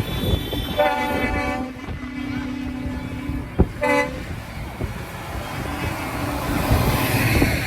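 Vehicle horns tooting twice, a longer toot about a second in and a short one about four seconds in, over the running of passing tractor engines. The engine noise swells near the end.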